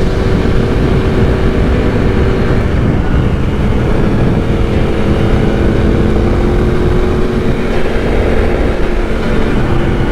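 Yamaha R1 sport bike's inline-four engine running at a steady pace while riding, under heavy wind rush on the microphone.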